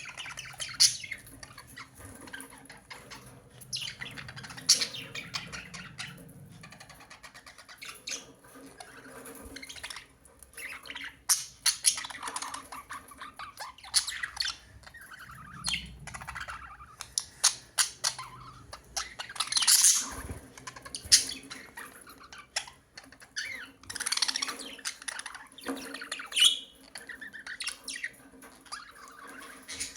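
Budgerigars chattering, with frequent short squawks and chirps coming in quick irregular bursts.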